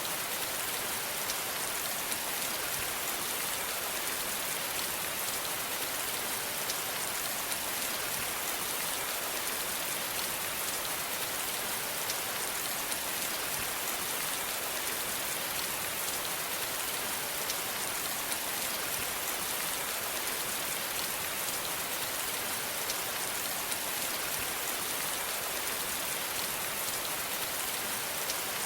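Steady rain falling, an even hiss of many drops with faint individual drop ticks throughout.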